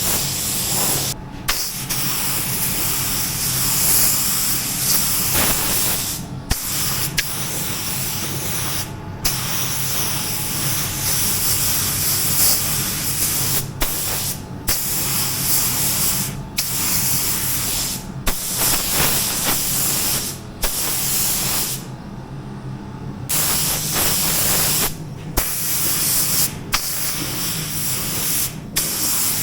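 Compressed-air paint spray gun spraying in repeated passes: a loud, steady hiss that stops briefly between passes a dozen times, with one longer pause near the middle. A low steady hum runs underneath.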